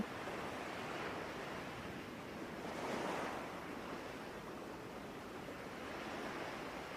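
Soft ocean surf, steady and low, with a wave swelling and falling back about three seconds in.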